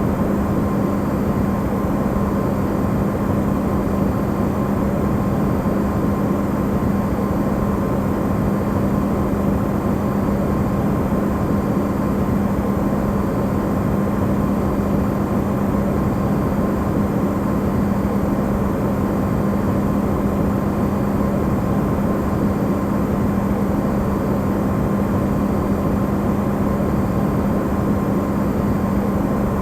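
Amplified recording of an Electrolux refrigerator running: a steady, unchanging hum with a strong low tone and a fainter higher one over an even rushing noise, used as white noise.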